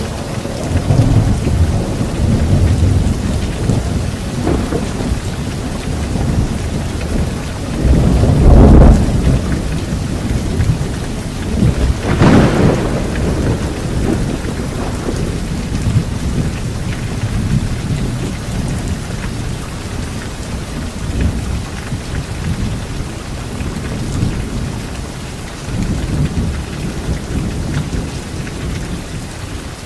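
Steady rain with rolling thunder: low rumbles throughout, two louder claps about eight and twelve seconds in, and the thunder dying down toward the end while the rain continues.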